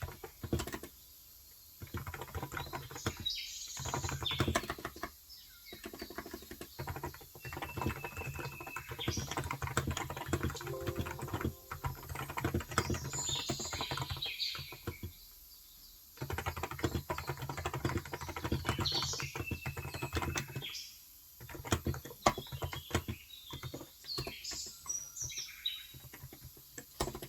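Rapid typing on a Cox Endeavor tenkeyless keyboard with 35g electrostatic-capacitive (Topre-style) switches, in runs of keystrokes broken by brief pauses. Birds chirp intermittently over the typing.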